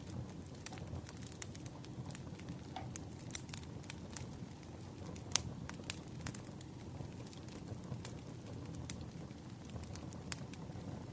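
Burning firewood crackling: a steady low rumble with scattered sharp pops and snaps, the loudest a little past halfway.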